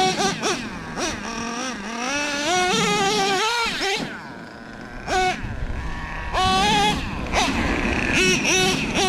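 Nitro RC monster truck's OS .21 TM two-stroke glow engine revving in repeated throttle bursts. Its pitch climbs steadily for a couple of seconds, drops back to a quieter lull near the middle, then blips up again several times.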